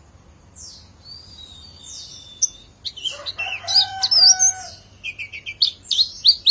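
White-eye (pleci) song: faint high chirps at first, then rapid high twittering phrases that grow loud again near the end. About halfway through, a lower, drawn-out call with several held tones sounds under the chirps.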